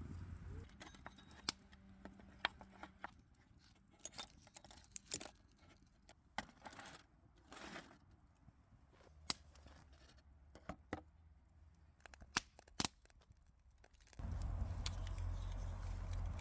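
Scattered small clicks, taps and short rustles, about a dozen spread irregularly over a quiet background. About two seconds before the end, a steady low rumbling noise sets in and stays.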